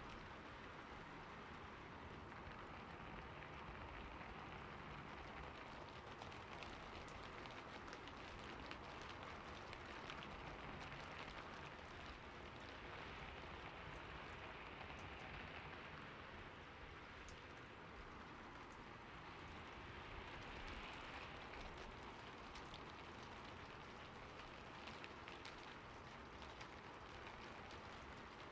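Steady, soft rain falling on a roof, a continuous hiss with many small drop ticks.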